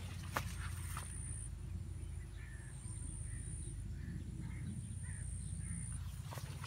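Several faint, short bird calls in the distance over a steady low rumble on the microphone, with two short rustling clicks in the first second.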